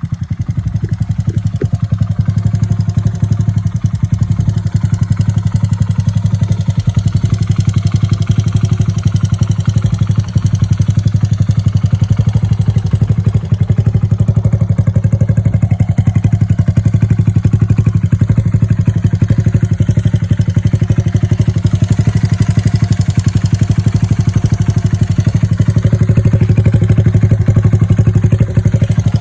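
Honda Ape 100's single-cylinder four-stroke engine idling steadily through a Takegawa aftermarket muffler, with an even, rapid exhaust pulse.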